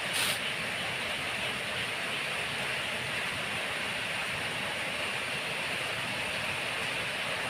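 Steady hiss of rain, with one short knock just after the start.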